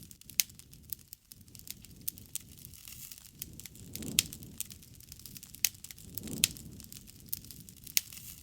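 Wood fire crackling: irregular sharp pops and snaps from the burning wood, a few louder ones, over a soft low rush that swells up about every two seconds.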